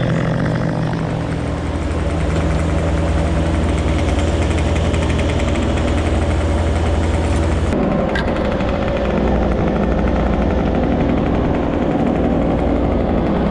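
An engine running steadily, its note shifting about eight seconds in.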